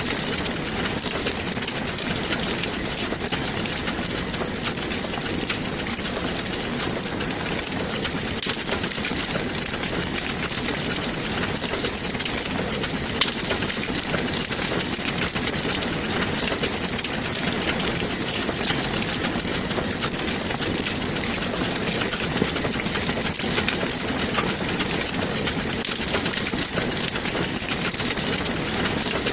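Wood fire in a fireplace crackling steadily, a dense run of small pops and snaps over a hiss, with one sharper pop about a third of the way in.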